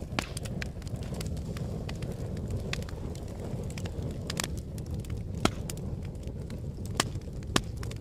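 Fire crackling over a steady low rumble, with many small snaps and a few sharper pops, the loudest about five and a half seconds in and twice more near the end.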